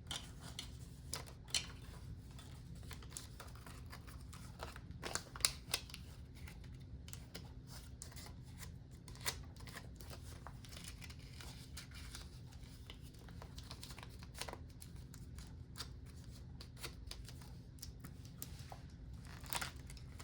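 Paper cash and a savings-challenge booklet being handled: scattered soft rustles and light clicks as bills are folded and worked into a slot, over a faint steady hum.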